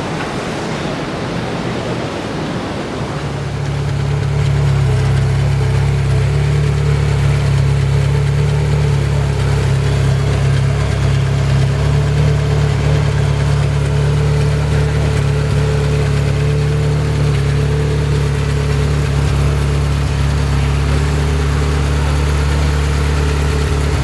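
Ferrari F355's V8 engine idling steadily; it comes in about three seconds in, louder over the next second or so, and then holds even.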